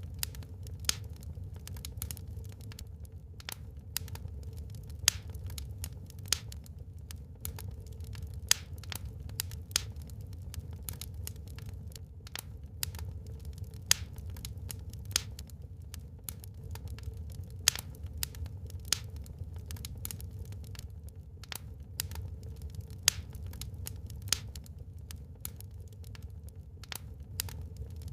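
Wood fire burning in a fireplace, crackling with irregular sharp pops, a louder one every second or two, over a steady low rushing.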